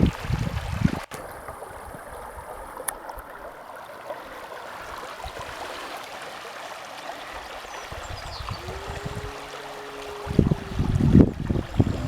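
Steady rush of running water, as from a rain-swollen stream or runoff. About two-thirds of the way through a drawn-out pitched call sounds, and near the end wind buffets the microphone.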